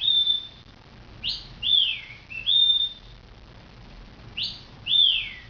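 Cockatiel whistling a short phrase of clear notes. A held note opens it, then a quick upward note drops away in a downward slide, and a level note follows. The upward note and downward slide come again near the end.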